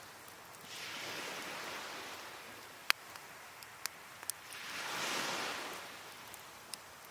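Waves washing onto a beach, two swells of surf rising and falling, with sharp crackles and pops from a wood fire, the loudest pop about three seconds in.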